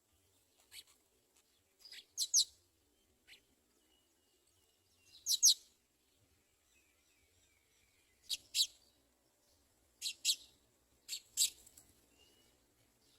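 House sparrow chirping: short, sharp chirps, mostly in quick pairs, every two to three seconds, the loudest pair about halfway through.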